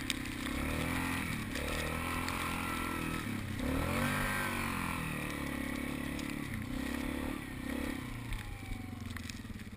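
Yamaha Wolverine ATV engine running under throttle, its pitch rising and falling as it revs up and down, and easing off near the end.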